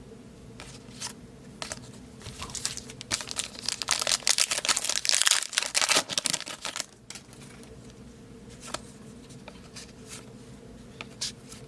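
Foil trading-card pack wrapper being torn open and crinkled in the hands, a dense rustling stretch in the middle, with scattered light clicks of cards being handled before and after.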